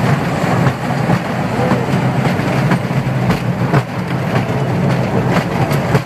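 Small amusement-park ride-on train running along its track, heard from an open carriage: a steady rumble with irregular clicks and knocks from the wheels and track.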